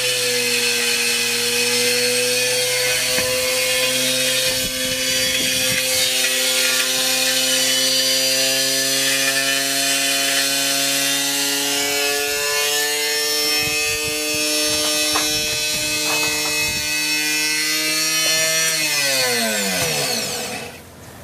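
Washing machine spinning fast with heavy iron loaded in its drum: a steady motor whine with rattling and knocking from the drum. Near the end the whine falls steeply in pitch and dies away as the spin winds down.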